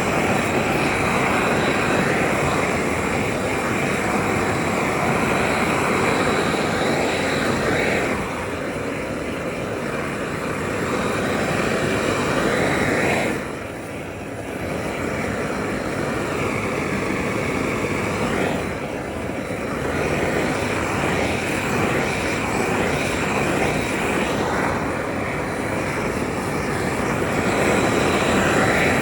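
Loud, steady rushing noise of factory work equipment, easing off briefly about three times.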